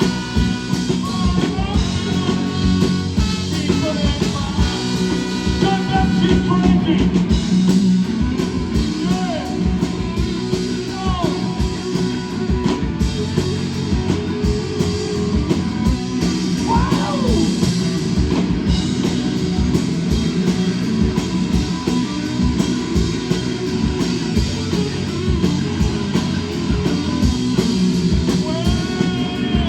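Rock band playing a loud passage of a song with a steady beat, mostly instrumental.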